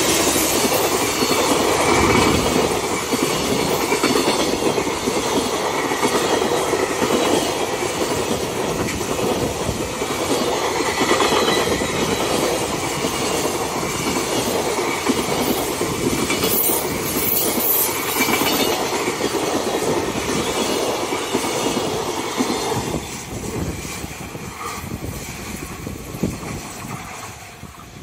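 A JR Freight EF210 electric locomotive passing close by, then a long string of Koki container flatcars rolling past with steady clattering of wheels on the rails. The noise fades over the last few seconds as the train moves away.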